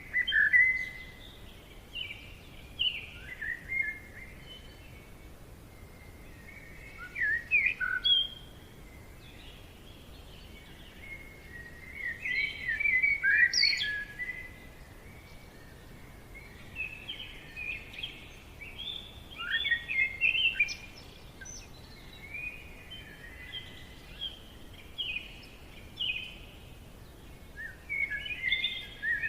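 Forest birdsong: a songbird sings repeated bursts of quick, high chirping notes every few seconds, over a faint steady background hiss.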